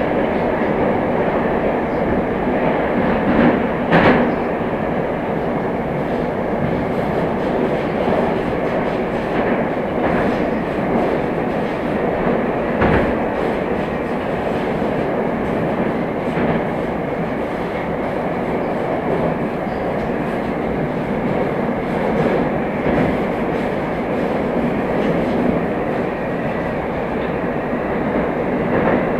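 Moscow Metro train running between stations: a steady rumble of wheels and running gear, with occasional sharp clacks of the wheels over the track. The strongest clack comes about four seconds in.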